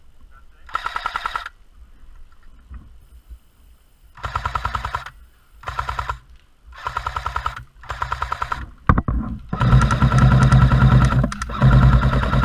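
Airsoft electric light machine gun (A&K PKM) firing bursts of BBs, each burst a rapid, even string of shots. Five short bursts are followed, about ten seconds in, by a longer sustained burst with the gearbox's low hum running under it.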